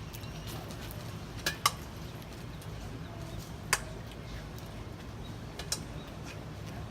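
A few sharp clicks or taps, four in all and spaced unevenly, over a steady low hum of outdoor background noise.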